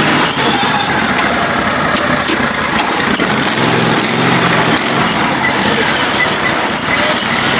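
Engine of a lifted, modified riding lawn tractor running steadily, with small clinks and rattles over it.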